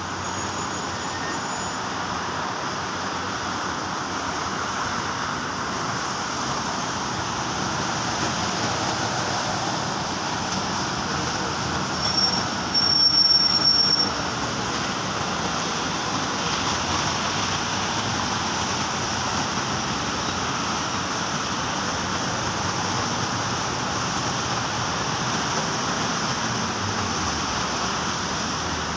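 Steady rain falling, a dense even hiss. About halfway through comes a brief high-pitched squeal, the loudest moment.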